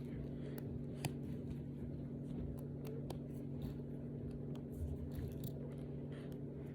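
Small plastic Brain Flakes discs clicking and rustling as they are handled and pushed together, with a sharp click about a second in and another about three seconds in, over a steady low hum.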